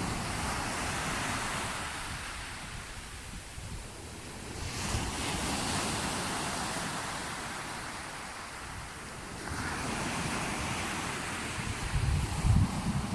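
Sea waves washing in, the surf swelling and fading about three times. Wind gusts buffet the microphone with a low rumble near the end.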